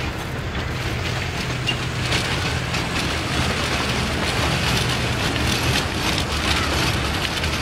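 Small narrow-gauge joy train rolling along the track, heard from on board: a steady low engine hum under continuous rattling and clattering of the carriages and wheels.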